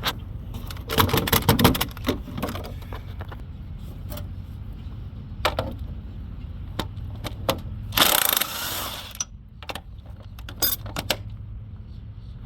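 Hand ratchet and socket clicking in irregular runs while loosening a car's engine mount bolts, with metallic knocks and a louder burst of noise about eight seconds in, over a low steady hum.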